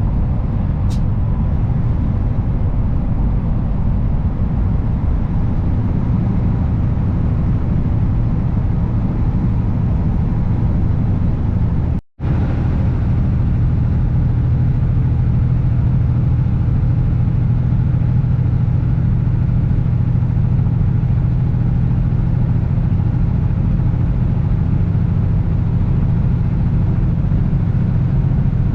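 Kenworth W900 semi truck's diesel engine droning steadily while driving down the road, with road and wind noise. The sound briefly cuts out about twelve seconds in.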